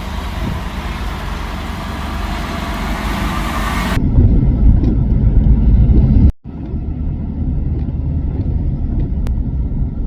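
Motor vehicle noise with a steady rumble. About four seconds in the sound changes abruptly to a heavier, deeper rumble, and it cuts out for a moment around six seconds.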